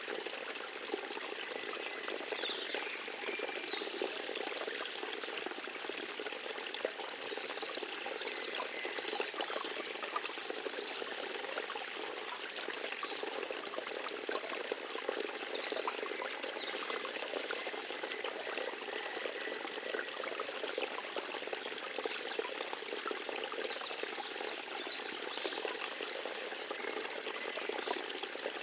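Forest stream trickling and gurgling steadily over its bed.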